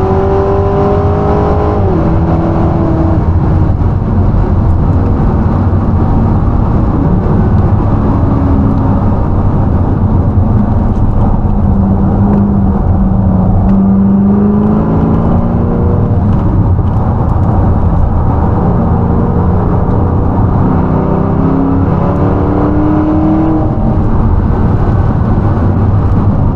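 V8 performance car driven hard on track: the engine note climbs and drops repeatedly through accelerations and gear changes, over a constant heavy rumble of wind and road noise.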